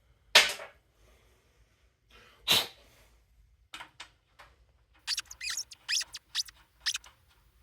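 Short, high-pitched squeaks, about a dozen in quick succession near the end, from fitting a new spark plug into a small lawn-edger engine. Two sharp, louder noises come first, in the first three seconds.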